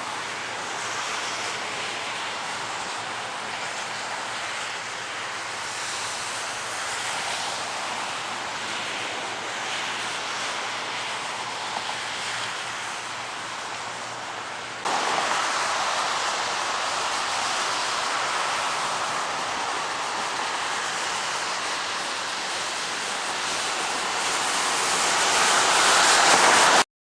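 Downed, lightning-struck power line burning, a steady electrical hiss with a faint low hum underneath. It jumps louder about halfway through, swells near the end, then cuts off abruptly.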